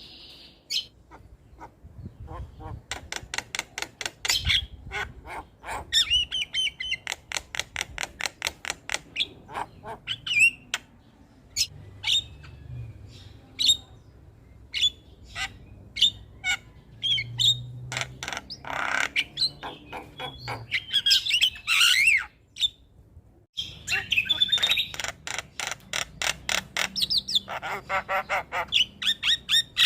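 Javan myna (jalak kebo) singing: rapid runs of sharp clicking notes mixed with short whistled and harsh chattering calls, with a brief break about two-thirds through.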